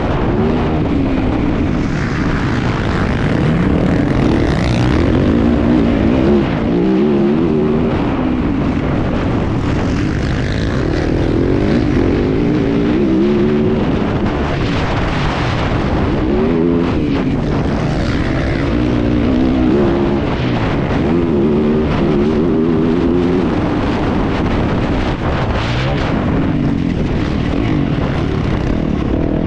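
Yamaha YZ450F four-stroke single-cylinder motocross engine under hard racing throttle, its pitch climbing and falling again and again as the rider accelerates, shifts and backs off through the track.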